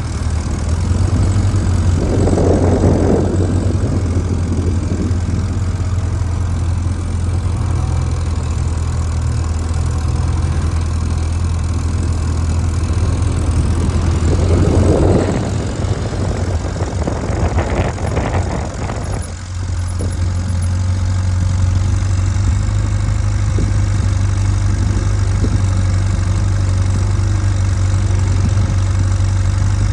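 Motorcycle engine running at low speed through a slow-riding course, a steady low hum, with louder swells about two seconds in and again around fifteen to nineteen seconds.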